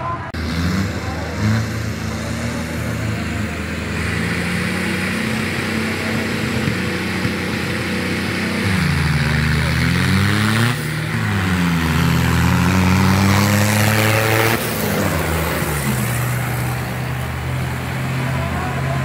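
Several diesel tractor engines running hard together. About halfway through, their pitches rise and fall and cross each other, loudest shortly before a sudden drop in level.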